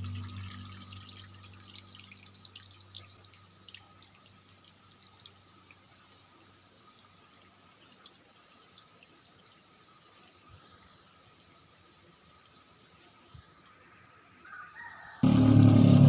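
Water dripping and trickling, with small scattered drips, after steady tap-like running fades out over the first couple of seconds. About 15 seconds in, a much louder sound starts suddenly.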